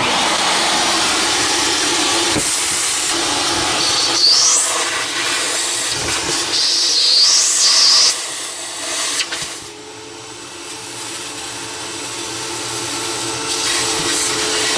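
Vacuum switched on and running loud and steady, its pitch whistling upward a couple of times as the nozzle is blocked and freed, then running lower after about eight seconds.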